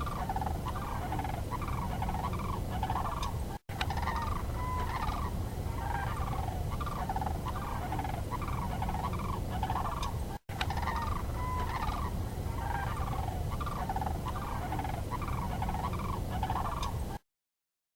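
Recorded bird calls repeating about twice a second over a steady low rumble, with two brief dropouts where the recording is cut; they stop abruptly shortly before the end.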